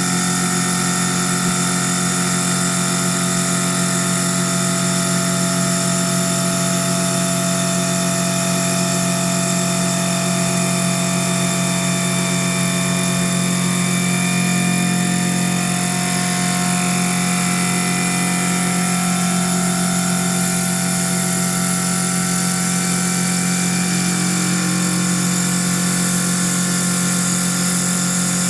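CNC wood lathe running steadily: a constant motor hum with several higher whining tones that drift a little in pitch in the middle, over an even high hiss.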